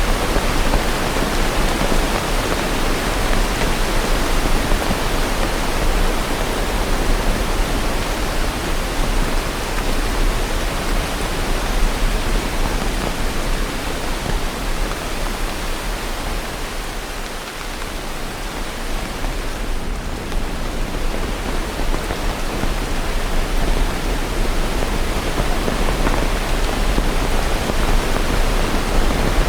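Steady rain falling, an even dense hiss with no thunder; it softens slightly a little past the middle.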